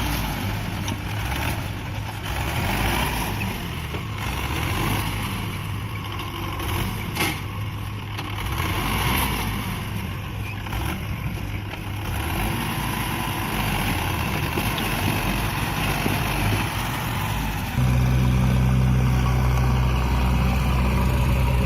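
Mahindra 585 DI tractor's diesel engine running steadily under load. It grows suddenly louder and heavier about eighteen seconds in.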